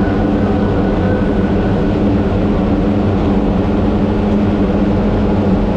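A vehicle engine drone running loud and steady at an even pitch, without revving up or down.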